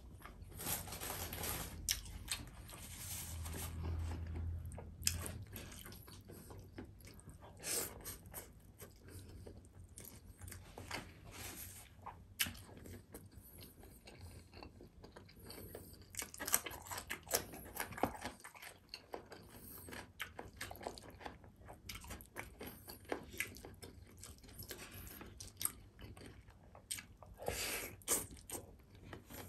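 Close-miked chewing and mouth sounds of a person eating rice and beef rendang by hand, with many short sharp clicks through the chewing.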